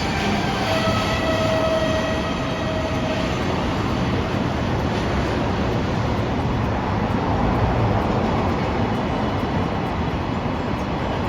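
Electric train running past, with a steady whine of several tones from its motors over the first three seconds, then a steady rolling rumble.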